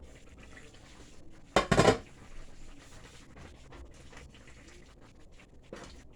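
Kitchen utensils clinking and scraping against a cooking pot, with one loud clatter about a second and a half in.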